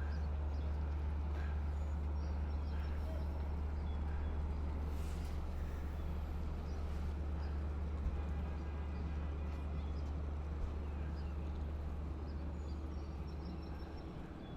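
EMD DE30AC diesel locomotive idling at a standstill: a steady low rumble that eases off slightly near the end.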